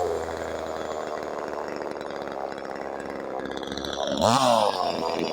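DDE CS 250 two-stroke petrol chainsaw running at low speed, then revved up sharply and let back down once about four seconds in.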